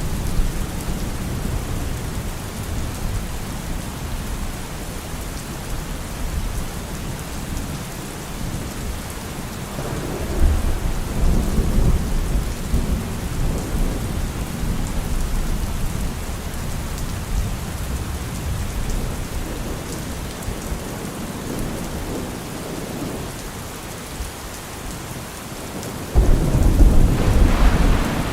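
Steady rainfall with thunder: a low rumble rolls in about ten seconds in, and a sudden, louder thunderclap breaks near the end and keeps rumbling.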